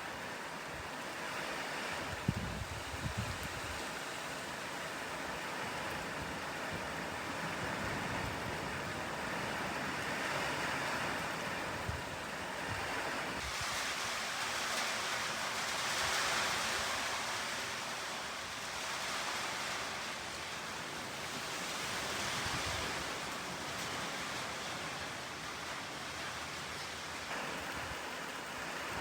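Steady rain falling: an even, hissing wash that swells a little midway through, with a few brief low rumbles about two to three seconds in.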